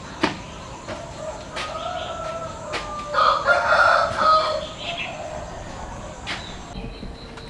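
A rooster crowing: one long crow that starts about a second in, is loudest in the middle and fades out, with a few sharp clicks around it.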